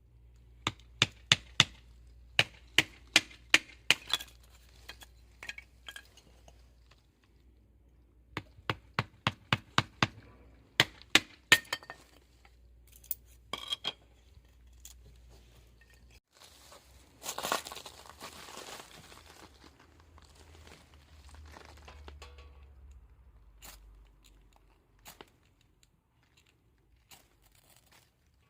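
Two quick runs of sharp clicks or snaps, about three a second, then a short scraping rustle about seventeen seconds in.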